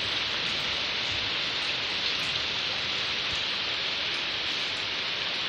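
Heavy rain falling steadily, an even hiss with no break or swell.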